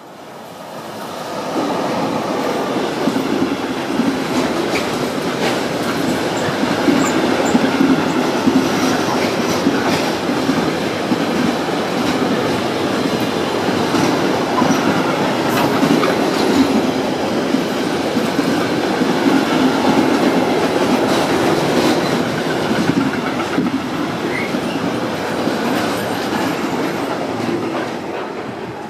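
Freight train hauled by an SBB Cargo electric locomotive passing close by: the locomotive's approach swells in over the first couple of seconds, then the long string of container wagons rumbles and clatters past with many sharp wheel clicks, fading as the last wagons go by near the end.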